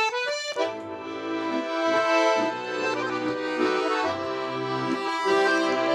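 Russian garmon (button accordion) playing a song's instrumental introduction. A quick rising run of notes at the start leads into full sustained chords over a bass line.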